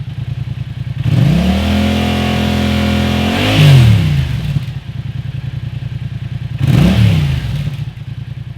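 2015 Yamaha FZ-07's 689 cc parallel-twin engine running through an Akrapovic titanium exhaust. It idles, is revved up about a second in and held for a couple of seconds, drops back to idle, and gets one short throttle blip near the end.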